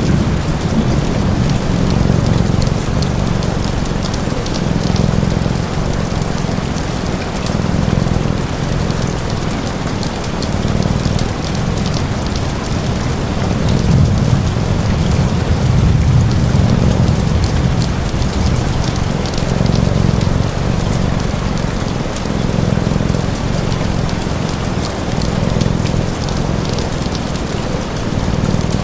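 Steady rain falling on a surface, with small crackles of a wood fire and a low cat purr underneath that swells and fades with each breath, about every two to three seconds.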